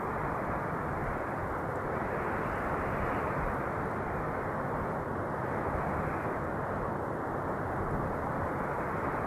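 Wind blowing steadily: a dense, even rushing that swells and eases slightly every few seconds.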